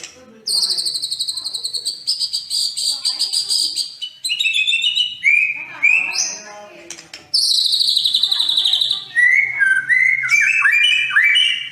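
Songbird song from a sekoci and white-rumped shama (murai batu) tutor recording. Fast, high, buzzy trills lasting a second or two alternate with lower whistled notes that slide up and down, around the middle and again near the end.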